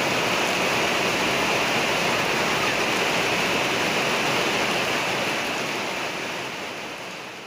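Heavy rain falling, a steady dense hiss that fades out over the last two seconds.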